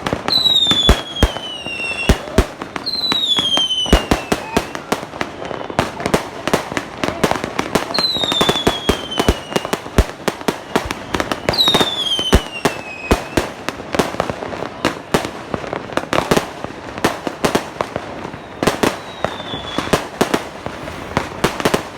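Fireworks and firecrackers banging in quick, irregular succession, with about five whistling fireworks, each giving a falling whistle.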